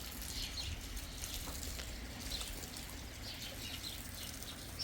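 Small birds chirping in short, repeated calls several times a second, over a steady hiss and a low rumble.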